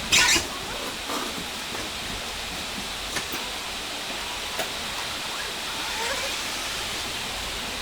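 A steady rushing hiss with a loud knock right at the start and a few fainter knocks after it.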